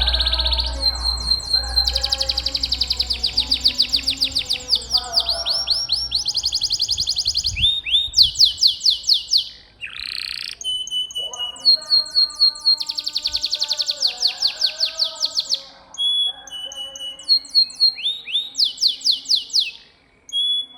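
Domestic canary singing long, fast rolling trills of rapid repeated high notes, broken by brief pauses of a second or so and a few single whistled notes.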